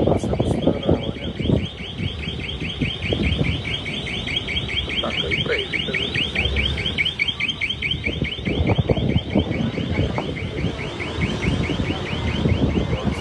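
Car alarm sounding in a rapid repeating electronic warble, several chirps a second, with irregular low knocks and rumble underneath.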